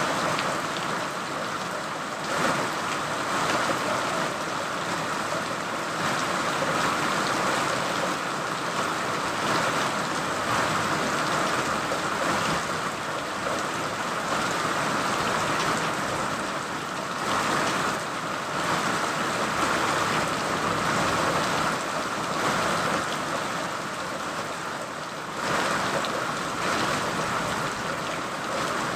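Steady rain falling, an even hiss that swells and eases every few seconds.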